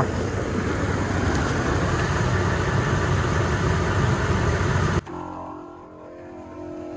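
Smittybilt 2781 12-volt air compressor running steadily as it inflates a tire. The sound cuts off abruptly about five seconds in, giving way to a quieter, steady hum.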